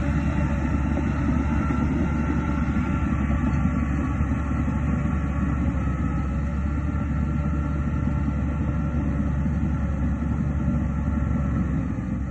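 Heavy diesel earthmoving machinery running steadily: a deep, even engine drone with a faint steady whine above it.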